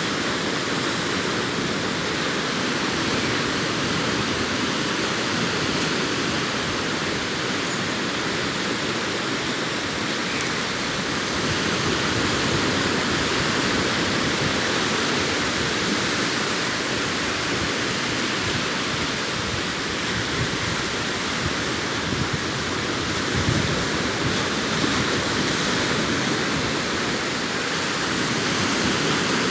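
Sea waves breaking on a beach: a continuous, steady wash of surf that swells slightly about halfway through.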